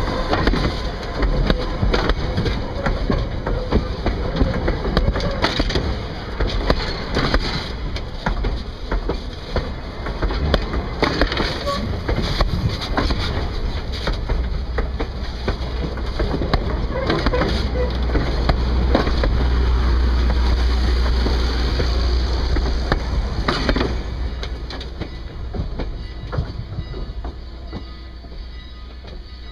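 Passenger coaches of a steam train rolling past at track level, their wheels clattering over the rail with frequent clicks and knocks under a steady rumble. The sound grows heavier in the middle, then fades as the last coach moves away.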